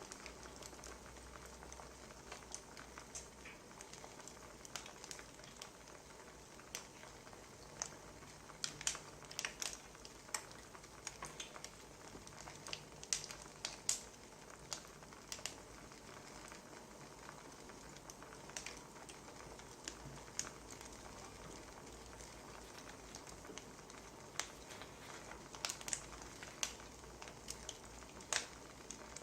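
Wood fire crackling quietly: a steady soft hiss with irregular sharp pops and snaps.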